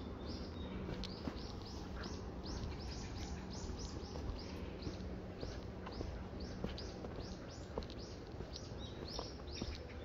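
A songbird calling a long, rapid series of short, high, downward-sliding chirps, about three a second, over a steady low background rumble.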